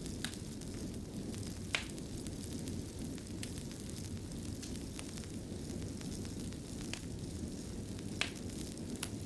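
Wood fire crackling in a fireplace: a steady low rumble of the burning fire with sharp single pops every second or two, the loudest just under two seconds in.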